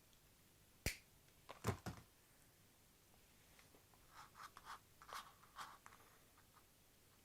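Faint handling noises from working cables and plastic spiral wrap by hand. There is a sharp click about a second in and a few knocks just after, then soft rustling and light clicks a few seconds later.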